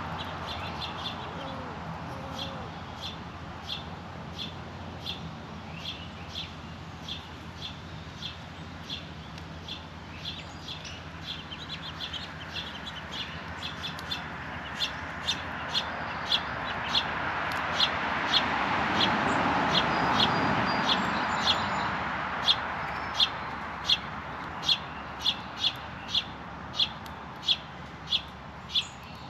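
A small bird calling a short, sharp chip note over and over, about one to two a second, louder in the second half. A broad rushing noise swells and fades in the middle.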